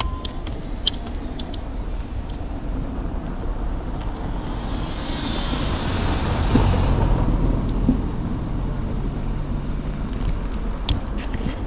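A road vehicle travelling, with a steady low engine and road rumble. A hiss swells and fades around the middle, and a few sharp clicks come near the start and the end.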